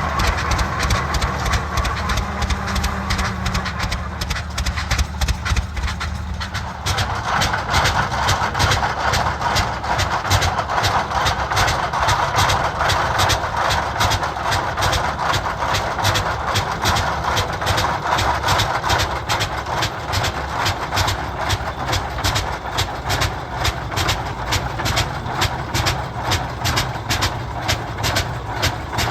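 Antique tractor engine running steadily with even, regular exhaust beats. A rushing noise joins about a quarter of the way in.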